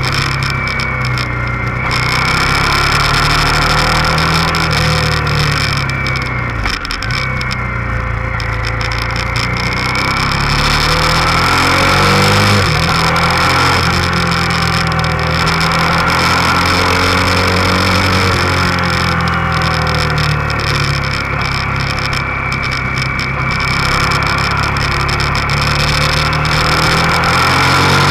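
Motorcycle engine heard on board while riding, its note rising and falling with the throttle and dipping sharply about seven and twelve seconds in.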